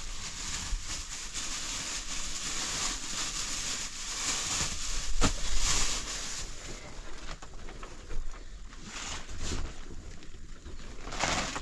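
Wind blowing in gusts, with a low rumble of wind buffeting the microphone and a sharp knock about five seconds in.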